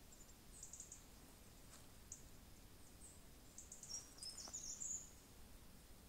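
Faint, high-pitched chirps of small birds in woodland: scattered short notes, with a brief burst of twittering about four to five seconds in, over a very quiet background.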